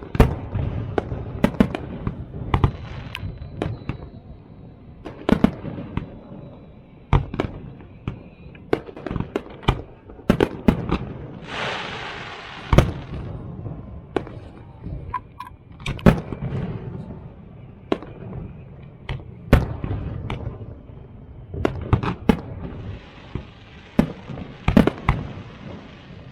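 Fireworks display: a steady run of sharp bangs and booms over a low rumble, with a loud hissing crackle about twelve seconds in.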